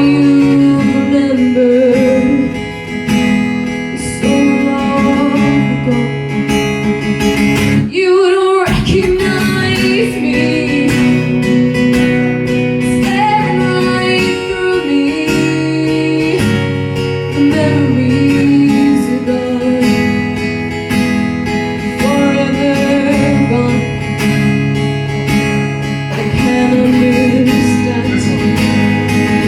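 A song played on acoustic guitar, with a sung melody over it, and a brief break about eight seconds in.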